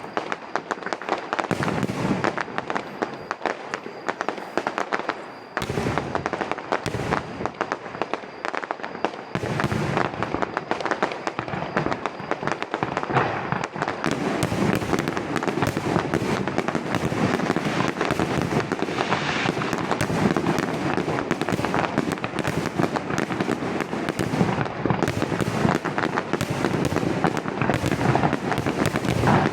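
Fireworks display: rapid bursts and crackling shells going off in quick succession, with short lulls at first and a continuous, denser barrage from about ten seconds in.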